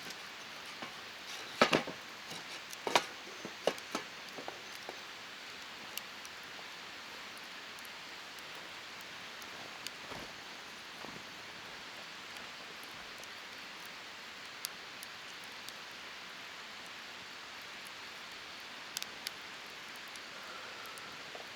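Wood fire burning: a steady hiss with sharp crackles and pops, several loud ones in the first four seconds, then only scattered pops.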